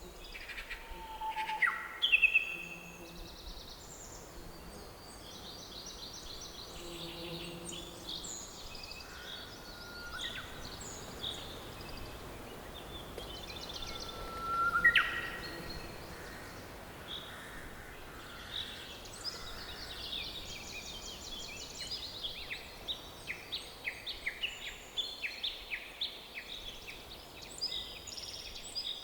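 Several songbirds singing and calling in a forest over a faint steady background hiss. There is a loud rising whistle about halfway through, and a fast run of chirps fills the last third.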